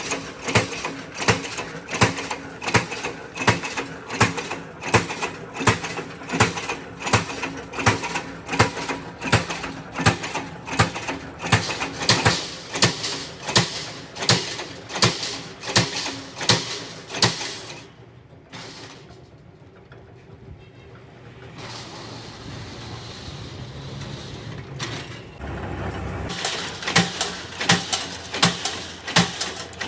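Rhythmic mechanical clicking, about two sharp clicks a second. It stops about two thirds of the way through, giving way to a softer hiss, then starts again near the end.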